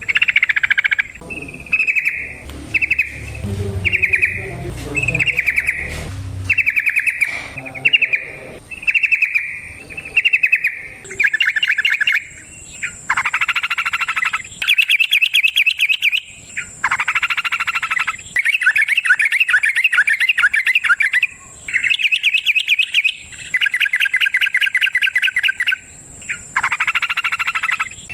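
Yellow-vented bulbul (trucukan) singing in full voice. Short bubbling phrases come about once a second at first, then from about eleven seconds in longer, fast, rattling trilled phrases follow one after another. A low rumble sits under the song for a few seconds near the start.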